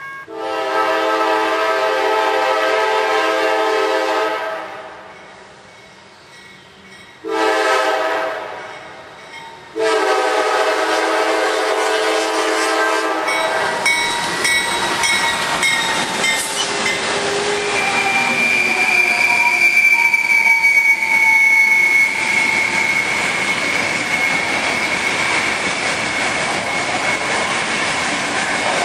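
Norfolk Southern diesel locomotive's multi-note air horn sounding a long blast, a short blast and another long blast as the freight train approaches. Then the locomotives and a string of freight cars pass close by, with wheels clattering over the rail joints and a high wheel squeal for a few seconds past the middle.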